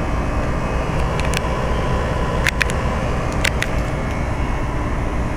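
1997 Rheem 3-ton condensing unit's scroll compressor running with a steady hum while the condenser fan stays stopped, which the owner takes for the low-ambient kit holding the fan off. A few sharp ticks sound in the middle.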